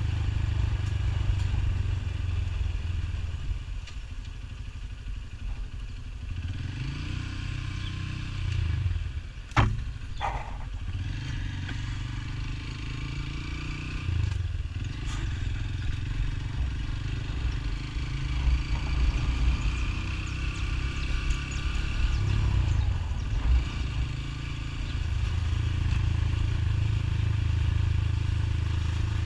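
Motorcycle running on the move, a steady low rumble that eases off for a few seconds and picks up again, with a sharp click about nine and a half seconds in.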